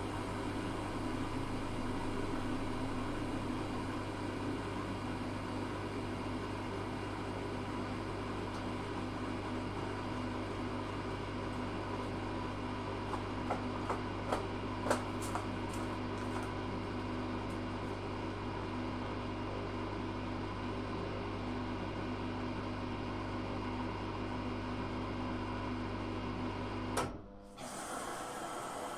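Zanussi FA623 washing machine running with a steady, low hum, with a few light clicks about halfway through. The hum cuts off suddenly with a click near the end.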